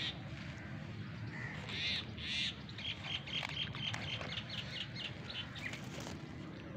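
Birds calling outdoors: two high calls about two seconds in, then a quick series of short, high chirps, about five a second, for about three seconds.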